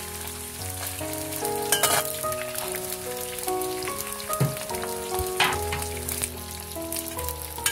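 Goose pieces and whole spices sizzling in hot oil in a wok as a metal spatula stirs them, with two sharper clatters, about two seconds in and again around five and a half seconds. Background music with sustained melody notes plays throughout.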